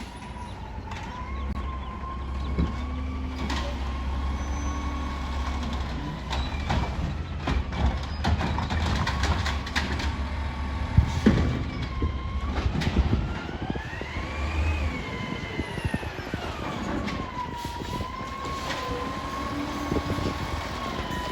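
Garbage truck's diesel engine running, with a wavering hydraulic whine that rises in pitch and falls again about two-thirds through, and several sharp clanks.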